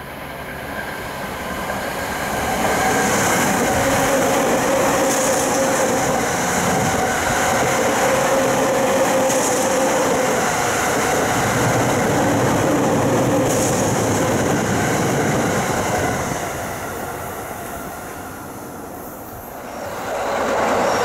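JR East Tokaido Line electric commuter train in Shonan livery passing through a station: its running noise builds over the first couple of seconds, holds steady with a faint steady tone under the rail noise, then fades after about sixteen seconds. Near the end the train noise rises again.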